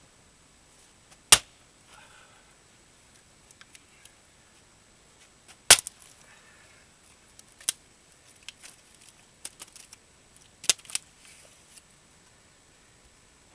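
Axe blows splitting a dried larch round, worked from its outer edge: four sharp cracks a few seconds apart, the last one quickly doubled, with small knocks and clatters of wood between.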